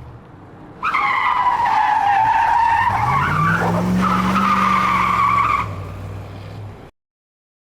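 Tires squealing loudly over a car engine, starting suddenly about a second in, with the engine's pitch rising midway and then holding; it cuts off abruptly about two-thirds of a second before the end.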